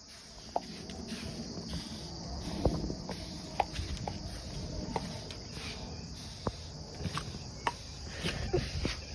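Steady high insect chirring, with scattered clicks and taps.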